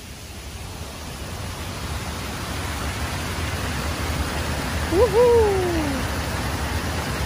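Rushing water of a river running toward a waterfall, a steady hiss that grows louder over the first few seconds. About five seconds in, a person's voice calls out a short rising-and-falling "Woohoo!".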